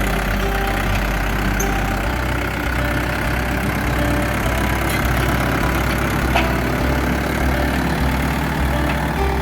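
Mahindra Yuvo 575 DI tractor's 45 hp four-cylinder diesel engine running steadily at low revs.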